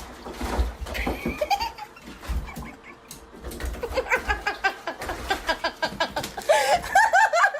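A person laughing in quick repeated bursts, getting louder and higher-pitched near the end.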